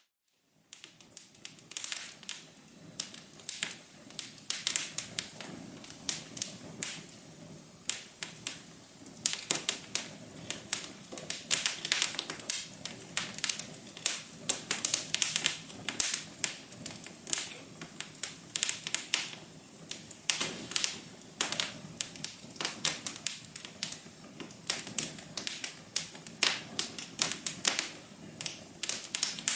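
Wood fire crackling in a fireplace: a dense, irregular run of sharp pops and snaps over a soft steady hiss. It breaks off for about half a second at the very start, then picks up again.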